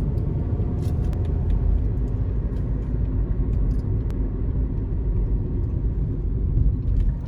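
Steady low rumble of a moving vehicle's cabin, with a few faint clicks.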